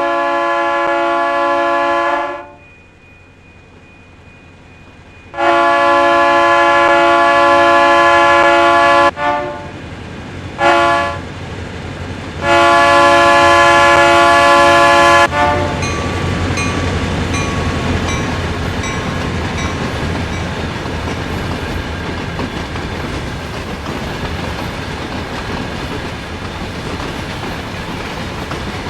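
Diesel freight locomotive's multi-chime air horn blowing the long, long, short, long grade-crossing signal, then the train rolling past with wheels clacking over the rail joints and a steady rumble.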